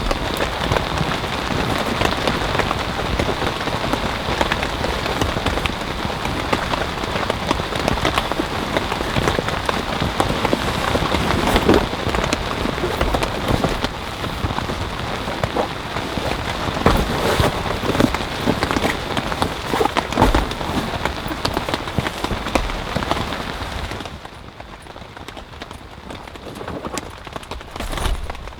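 Loud rain falling on a surface close by: a dense, steady wash with many separate drop ticks. About 24 seconds in it drops off suddenly to a much quieter patter.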